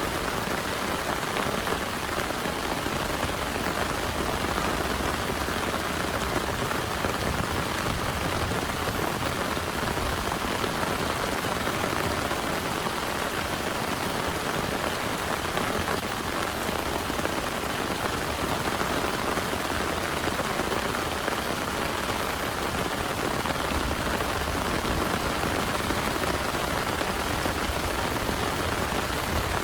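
Heavy rain pouring steadily without a break.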